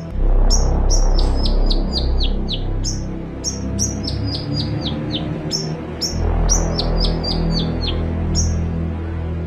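Long-tailed shrike (cendet) singing: runs of quick, sharp, falling chirps, about four or five a second, broken by short pauses, over background music.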